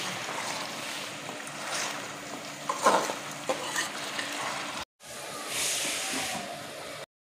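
Chicken, onions and chopped tomatoes frying in ghee in a pot, sizzling while being stirred, with a few knocks of the spoon against the pot about three seconds in. The sound drops out for a moment near five seconds and cuts off just before the end.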